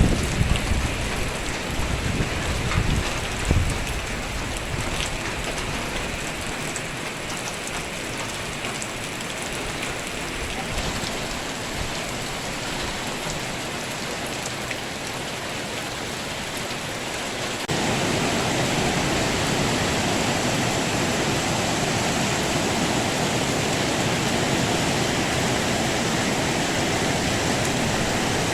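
Rain falling steadily, an even hiss of drops, with a few low rumbles in the first few seconds. About eighteen seconds in, the rain abruptly becomes louder and fuller.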